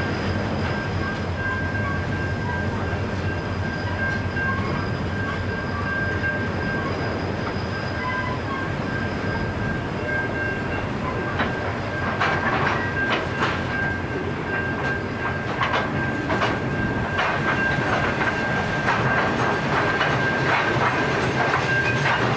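Freight train of ballast hopper wagons rolling past, its wheels clicking over rail joints, the clicks coming thick and fast from about halfway through. A steady high-pitched ring sounds throughout over a low rumble.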